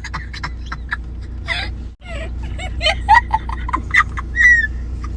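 Steady car-cabin engine and road hum, with short silly vocal squeaks and stifled giggles from people trying to make each other laugh.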